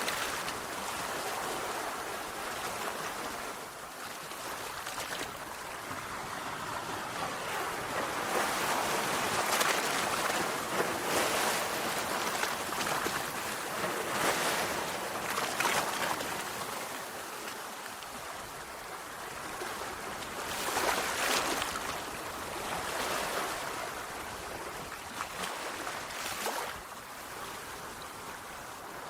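Sea waves breaking and washing on a shore, the surf swelling and ebbing every few seconds, with the strongest surges about ten, fifteen and twenty-one seconds in.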